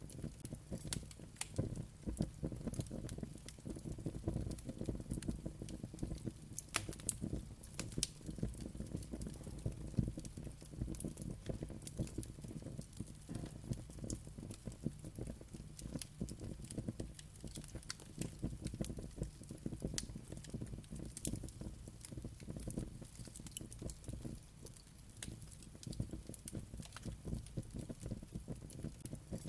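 Wood fire crackling and popping steadily, with many irregular sharp pops over a low rumble of flames.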